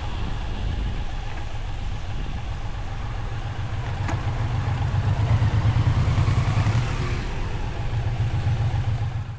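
Suzuki Boulevard M109R's big V-twin engine running on the move, with a deep pulsing exhaust note that gets louder about five seconds in as it pulls harder. There is one short click about four seconds in.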